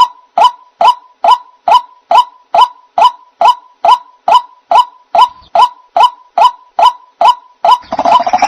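White-breasted waterhen calls used as a bird-trap lure: a short 'ruak' note repeated steadily, about two and a half times a second, each note dipping slightly in pitch. Near the end a denser, harsher chatter joins while the notes carry on.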